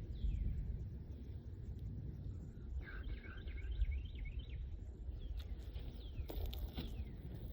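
Low steady outdoor rumble, with a bird singing a quick run of rising and falling chirps about three seconds in.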